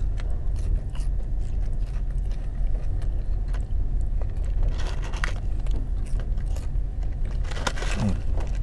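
A man chewing French fries close to the microphone, with soft crunches and small clicks, over the steady low rumble of a car engine idling. There are a couple of short rustles about five seconds in and near the end.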